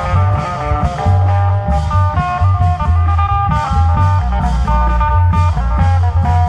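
Isan klong yao (long-drum) procession band music: a quick plucked-string melody over a heavy, steady drum and bass beat.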